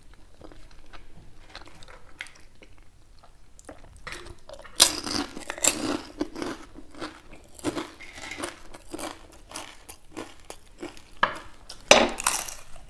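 People chewing food with crunchy bites, the loudest crunch near the end as a crisp papad is bitten.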